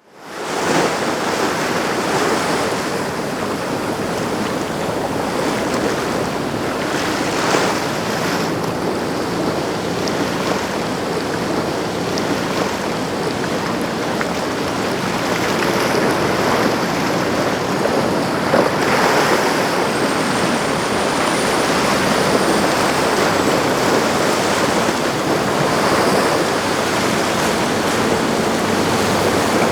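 Steady rush of waves and boat wake in a tidal inlet, with wind buffeting the microphone and a yacht running through the water.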